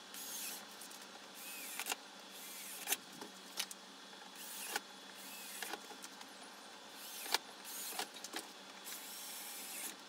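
Car wiring being handled and tied up: rustling of the cables with scattered light clicks and faint squeaks.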